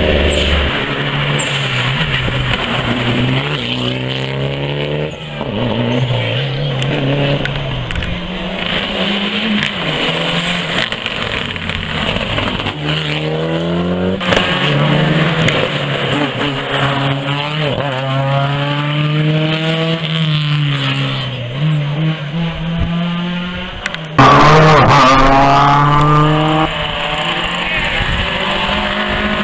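Rally car engines at full throttle, revving up through the gears again and again with the pitch dropping back at each shift. About 24 seconds in, the sound suddenly gets much louder as a car comes close.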